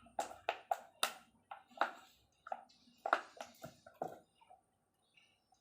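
Metal engine parts and hand tools clinking and knocking against each other as they are handled during engine assembly: about a dozen sharp, separate knocks over the first four seconds, then quiet.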